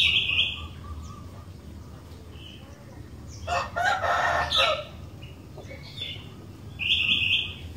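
Sooty-headed bulbul (kutilang) singing short, bright whistled phrases, one at the start and one near the end. About three and a half seconds in comes a louder, harsher call lasting about a second.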